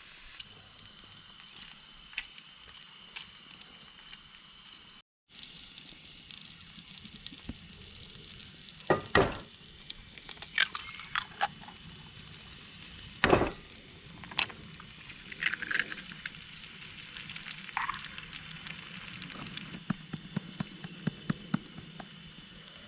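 Bacon and eggs sizzling in a frying pan, a steady frying hiss broken by sharp clicks and knocks of a utensil against the pan. There is a brief dead gap about five seconds in.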